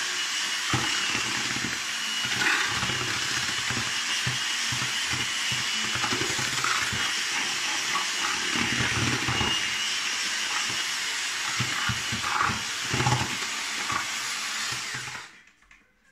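Electric drill with a paddle mixer running steadily in adhesive for aerated concrete blocks, churning it for a second mix before it is applied. It stops suddenly about a second before the end.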